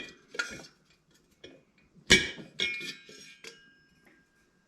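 Metal parts of a diesel heater being handled during disassembly: a few light clicks, then one sharp metallic clink about two seconds in that rings for a moment, followed by faint ticks.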